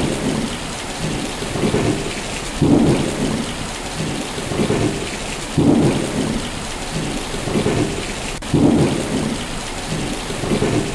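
Heavy rain in a storm, with a low rumble swelling and fading about once a second.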